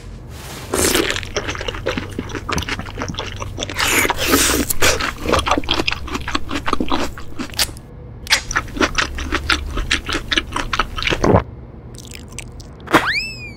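Mukbang eating sounds: juicy fruit being bitten and chewed, a run of irregular wet crunches and squishes lasting about ten seconds. Near the end, a short squeaky sound effect rises and falls in pitch.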